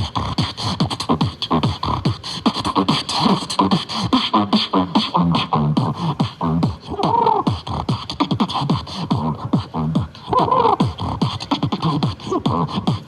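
Vocal beatboxing: a fast, unbroken beat of mouth-made kick drums that drop in pitch, snares and hissed hi-hats, with short voiced notes about seven and ten seconds in.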